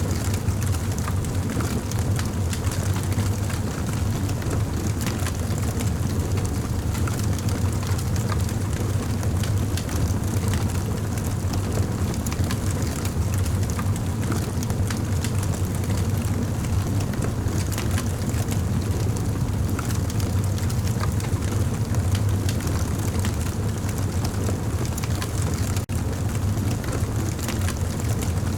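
Campfire burning: many small crackles and pops over a steady low rumble.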